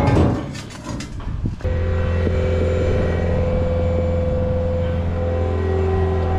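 Pickup truck engine running at a steady idle. It comes in abruptly about a second and a half in, after a moment of knocking and handling noise.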